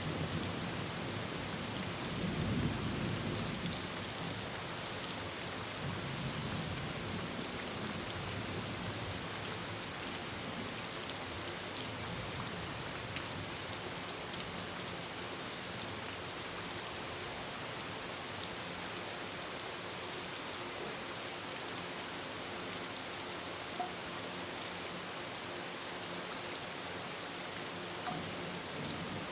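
Heavy rain falling steadily on a tin roof, with scattered individual drops ticking sharply. A low rumble of thunder fades away over the first few seconds.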